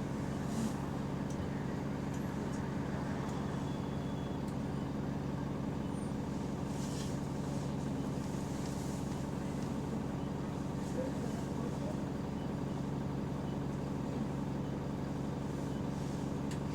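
City bus engine running steadily, heard from on board, with the steady low drone of an exhaust leak. A few brief hisses rise above it about seven to ten seconds in.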